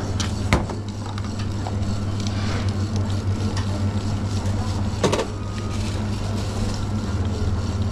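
Espresso machine running with a steady low hum and a hiss over it, and two sharp clacks of coffee-making gear, about half a second in and about five seconds in.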